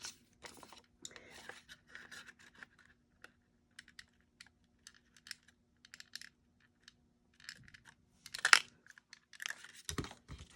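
Paper and small craft items being handled on a work table: light paper rustling with scattered small clicks and taps, and a louder rustle about eight and a half seconds in.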